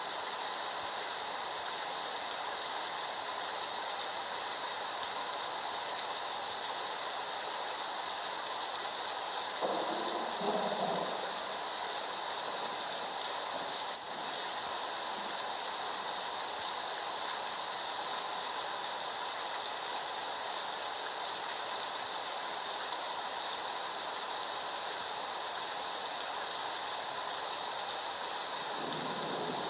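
Heavy rain falling as a steady, dense hiss. About ten seconds in there is a brief louder sound lasting a second or so, and a similar one begins near the end.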